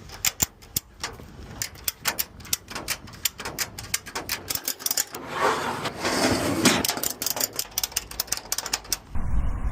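Ratchet of an over-wheel tie-down strap being worked to tighten the strap over a van's wheel: a run of sharp ratchet clicks, coming thickest about halfway through.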